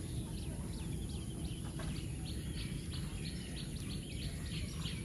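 Small birds chirping in the background: short, high chirps repeating several times a second, over a steady low background noise.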